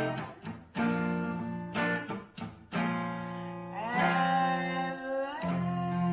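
Background music: plucked guitar notes, with a few notes that slide up in pitch and waver.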